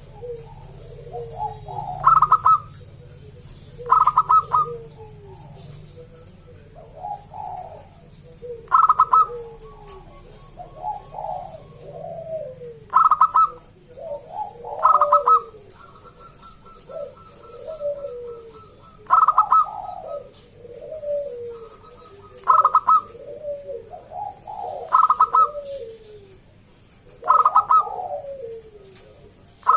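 A zebra dove (perkutut) singing its cooing song. A loud, high, clipped note comes about nine times, every two to four seconds, each followed by softer, lower rolling coos.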